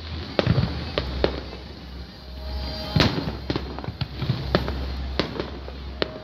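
Aerial fireworks bursting in an irregular run of sharp bangs and crackles over a low rumble, the loudest bang about three seconds in.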